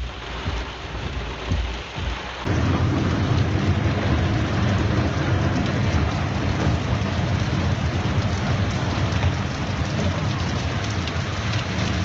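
Heavy rain pouring down as a loud, steady hiss with a deep rumble underneath, coming in suddenly about two and a half seconds in after a quieter start.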